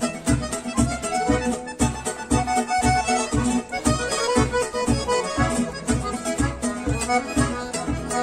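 Bandinha dance-band music: an accordion playing the melody over a steady beat of about two and a half strong bass beats a second.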